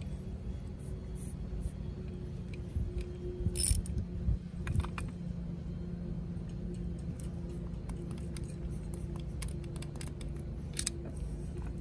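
Hand tools clicking and knocking against metal parts, a handful of sharp clinks with the loudest about three and a half seconds in, over a steady low hum.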